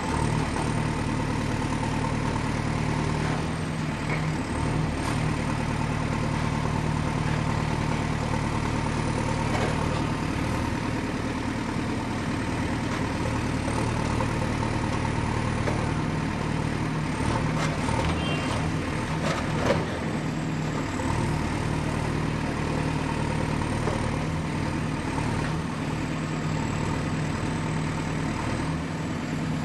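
Excavator's diesel engine running steadily under a thin high whistle, with a few sharp knocks about two-thirds of the way through.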